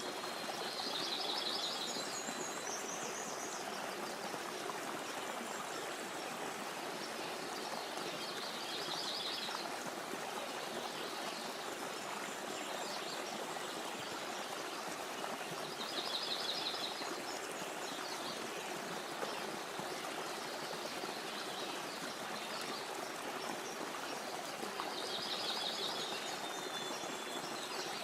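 Stream water running steadily over stones, with a small songbird giving a short, rapid trill four times, roughly every eight seconds.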